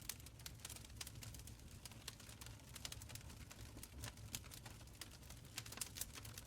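Wood fire crackling in a stone fireplace: quick irregular pops and snaps over a faint low rumble of the flames.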